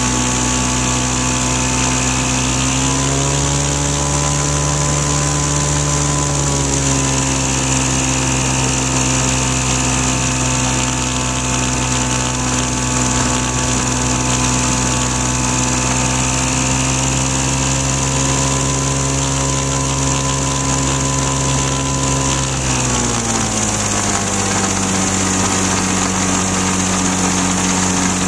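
Engine and propeller of a Flightstar II light sport aircraft running steadily. The engine speed steps up about three seconds in, eases slightly a few seconds later, and drops clearly about two-thirds of the way through.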